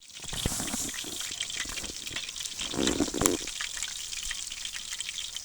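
Walleye fillets frying in hot oil in a pan, a steady sizzling hiss dotted with many small pops and crackles. A brief louder burst of noise comes about three seconds in.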